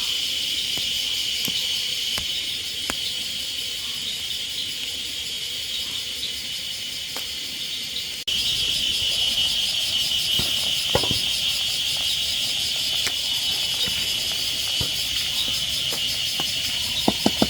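Steady, high-pitched drone of a forest insect chorus, with a few faint clicks. It breaks off abruptly about eight seconds in and picks up again a little louder.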